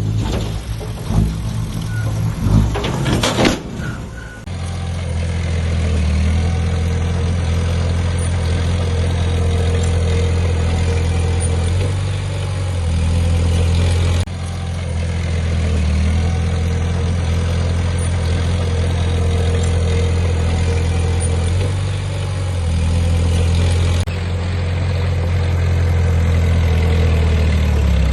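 Heavy diesel engine of earthmoving equipment running steadily with a deep, even drone. In the first few seconds there is irregular rattling noise and a few knocks before the steady engine sound sets in.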